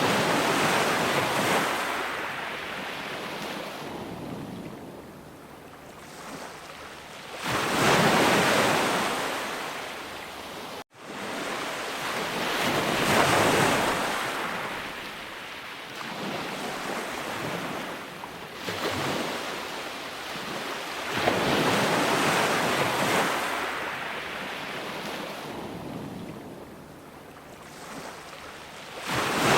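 Ocean waves breaking and washing on a shore. The noise surges and ebbs every several seconds, and there is a split-second cut to silence about eleven seconds in.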